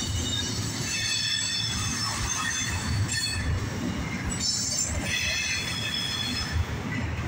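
Autorack freight cars rolling past close by: a low rumble of steel wheels on the rails, with high-pitched wheel squeal coming and going over it.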